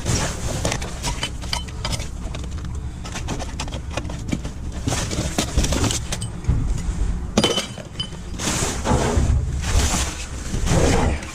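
Clattering, knocking and rustling of discarded objects being handled and shifted about in a dumpster, with a steady low rumble underneath.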